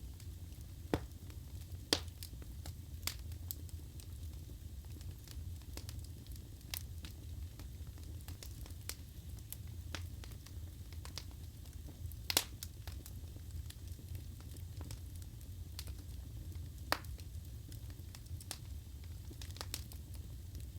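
Wood fire burning in a fireplace: a steady low rumble with scattered sharp crackles and pops from the burning logs, the loudest pop about twelve seconds in.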